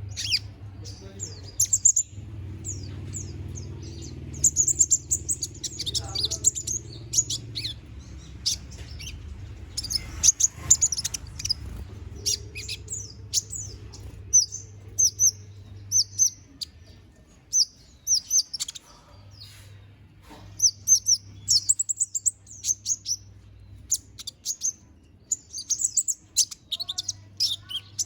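Konin, a small sunbird kept as a cage songbird and here in molt, singing energetically: rapid high, thin chirps and short trills in quick bursts. A steady low hum runs beneath.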